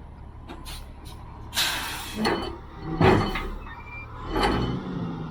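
A heavy diesel engine idling, with four short loud noises over it, the first a brief hiss.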